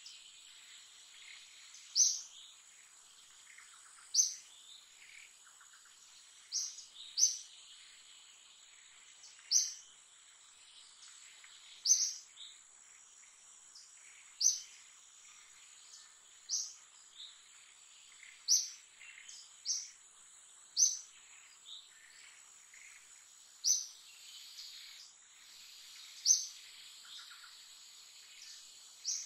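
Forest ambience: a bird gives a short, sharp, high chirp every two seconds or so, sometimes twice in quick succession, over a steady high-pitched insect drone.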